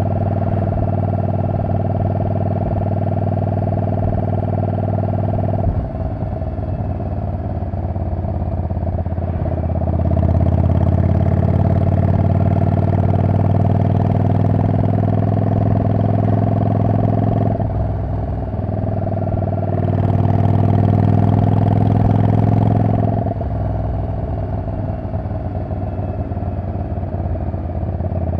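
Yamaha Drag Star 400 Classic's V-twin engine running at expressway speed through a loud aftermarket muffler that is not street-legal. The exhaust note swells and eases several times as the throttle is opened and rolled off, its pitch climbing slowly during the louder spells.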